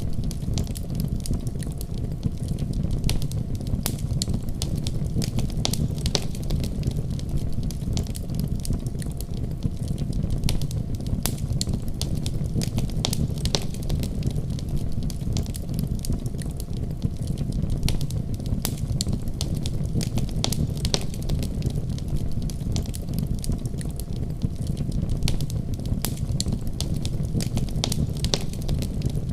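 Fire in a fireplace crackling, with irregular sharp pops and snaps over a steady low rumble of the flames.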